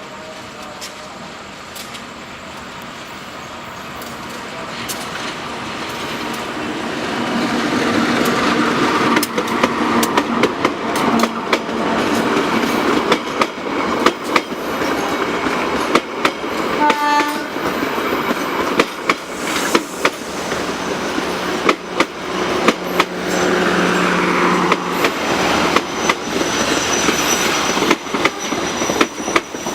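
Train running on rails. The noise builds over the first eight seconds, then goes on as a steady clatter of sharp clicks from wheels over rail joints, with a brief high tone about halfway.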